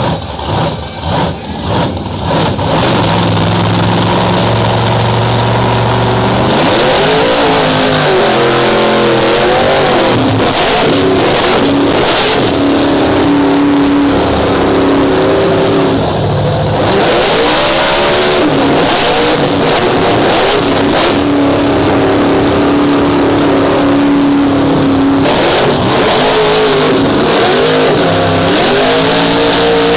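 Big-block V8 mud truck engine at full throttle under load. The revs climb and dip again and again and hold high for several seconds at a time, as in a truck pull.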